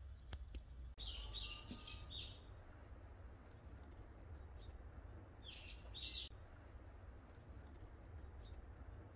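A bird chirping in two quick high flurries, about a second in and again about six seconds in, over a faint low steady rumble of outdoor background.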